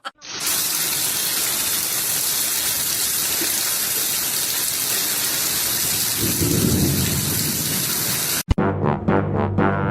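Steady, even hiss of heavy rain, with a low rumble a little past halfway through. It cuts off suddenly near the end and brass music begins.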